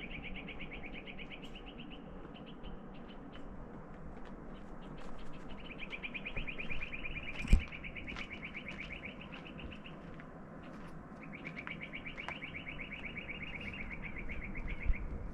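A bird giving a fast, even, high trill in three long bouts of about three to four seconds each. Scattered small clicks and one sharp knock about halfway through sound over it.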